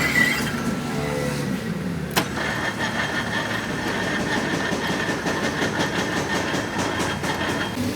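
An engine running, with a sharp click about two seconds in, followed by a steady whine and a rhythmic ticking.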